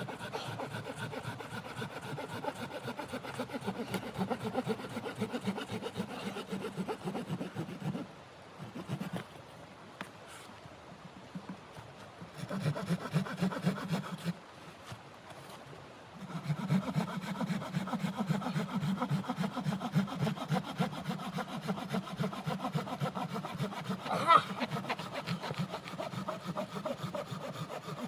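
Wood being cut with a hand saw in quick back-and-forth strokes, in several bouts with short pauses between them. A single sharp click sounds about three quarters of the way through.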